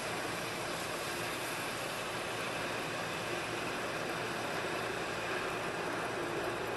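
Metal lathe running steadily while the cutting tool takes a hand-fed roughing facing cut across the end of an aluminum workpiece, a constant even whir and hiss.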